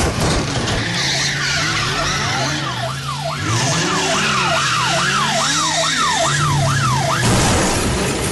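A siren-like wail that sweeps down and back up about twice a second, over a steady low hum. It stops about seven seconds in.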